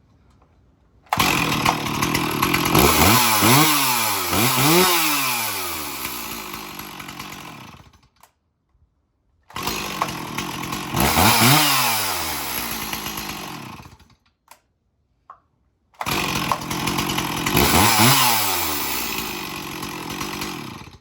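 Stihl 026 two-stroke chainsaw running and being revved: three separate stretches, each with sharp rises and falls in engine pitch as the throttle is blipped, then settling and fading.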